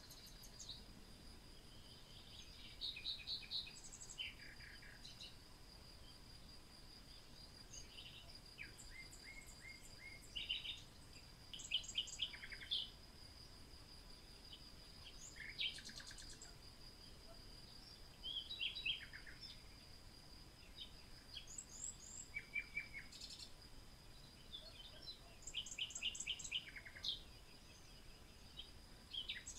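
Small birds chirping and trilling in short scattered phrases, over a steady high-pitched tone.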